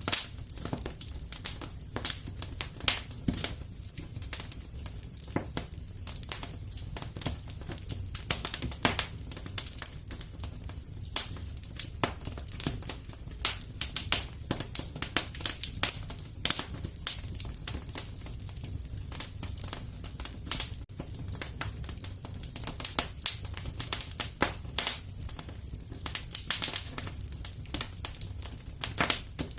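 Wood fire burning in a fireplace: dense, irregular crackling and sharp pops over a steady low rumble of the flames.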